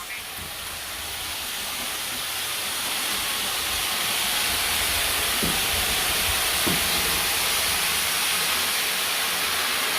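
Robot vacuum running with its suction fan at a steady hiss as it sweeps up candy, gradually getting louder over the first few seconds.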